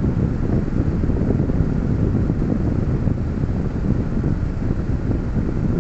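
Steady low rumble of a car heard from inside its cabin while it stands still, most likely the engine idling.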